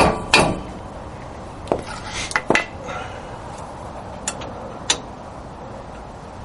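Hammer tapping on a wrench to break loose a wheel hub assembly's mounting bolts: two sharp metal strikes right at the start, then a few scattered lighter metal clinks.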